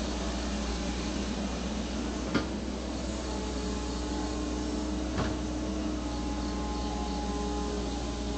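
A steady mechanical hum with a low drone, broken by two sharp knocks about three seconds apart; the first knock is the louder.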